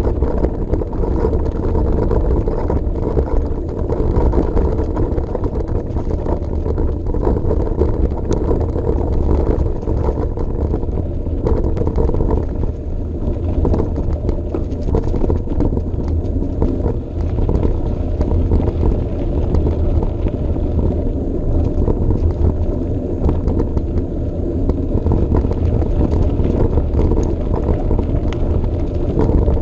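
Steady low rumble of a Trek Marlin 7 hardtail mountain bike rolling along a path, mixed with wind buffeting the GoPro Session's microphone.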